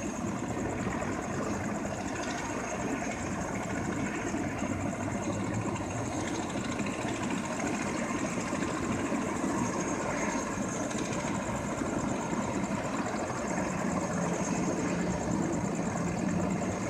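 Medical helicopter idling on the ground before lift-off: a steady low rumble with a constant high whine.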